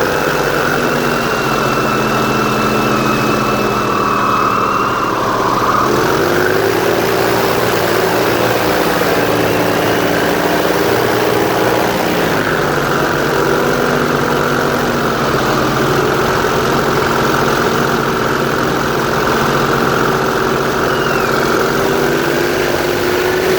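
Airboat engine and propeller running loud and steady with the boat under way. The engine note steps up about six seconds in and changes again about halfway through.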